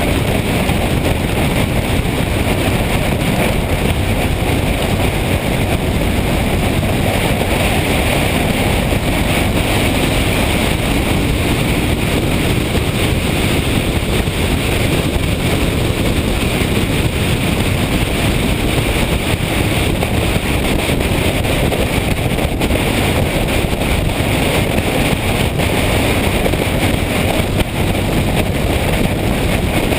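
Steady wind rushing over the microphone with motorcycle engine and road noise, as heard while riding at a constant speed.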